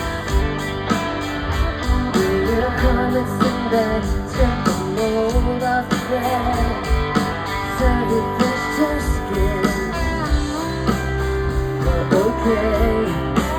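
Live rock band playing, mainly guitars over bass and drums, with little or no clear singing.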